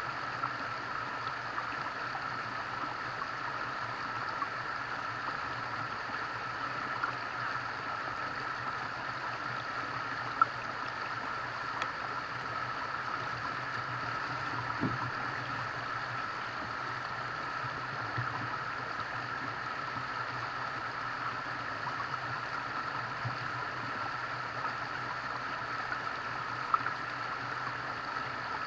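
Steady flowing water, with a few faint clicks.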